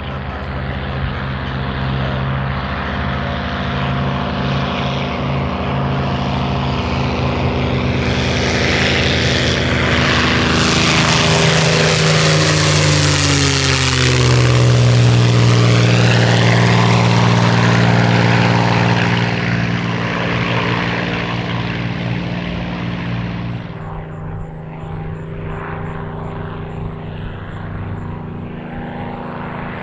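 A WWII propeller fighter's V-12 piston engine making a flyby. The engine drone builds up, drops in pitch as the plane passes about halfway through, then fades to a duller, more distant drone.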